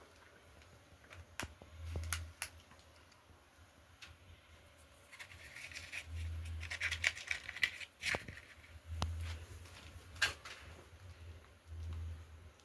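Scattered sharp snaps and clicks with a stretch of scratchy crackling midway, from kindling being handled while a cooking fire is lit, over dull low thumps every few seconds.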